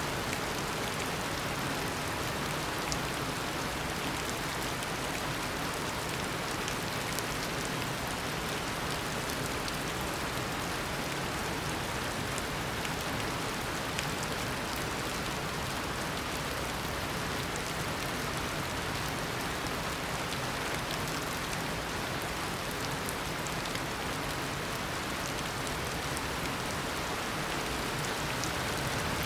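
Heavy tropical rain falling steadily as a downpour, an even hiss with scattered drop patter.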